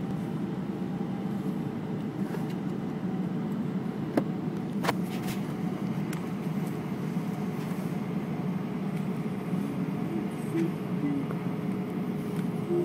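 Steady cabin noise inside an Airbus A320, the jet engines and air conditioning giving a low, even rumble with a steady hum, with two sharp clicks about four and five seconds in.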